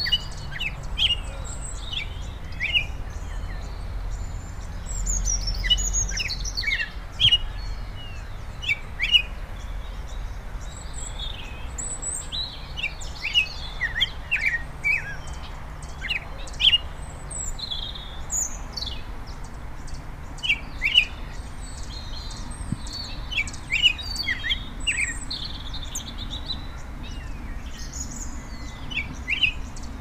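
Small songbirds chirping: many short, quick notes, mostly sliding downward, coming in irregular clusters over a steady low outdoor rumble.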